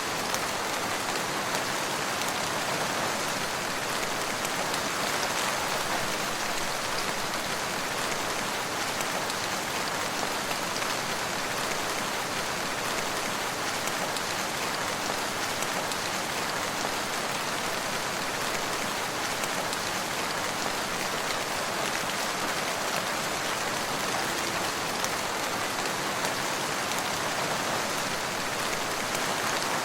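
Steady rain falling and pattering on surfaces, an even hiss without thunder or other events.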